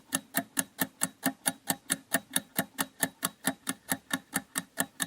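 Countdown timer sound effect ticking steadily, about five ticks a second.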